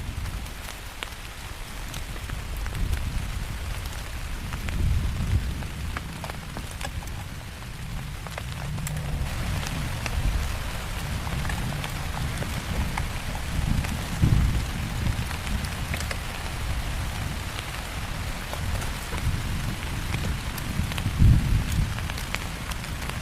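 Heavy rain falling steadily, with many close, sharp drop taps over a constant hiss. A low rumble swells and fades several times, loudest about two-thirds of the way through and again near the end.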